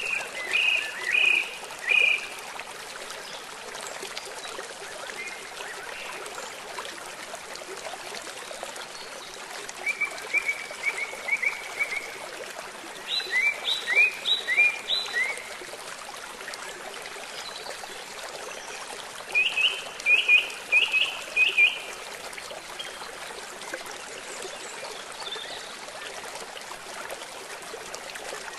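Steady rushing water with a bird calling in four short runs of quick chirps; one run, about halfway, is made of notes that sweep downward.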